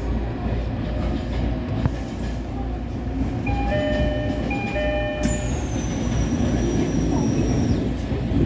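Shinano Railway SR1 series electric train running with a steady rumble of wheels on rails. About halfway through, a two-note chime sounds twice. Then a thin high whine starts and slides slowly down in pitch.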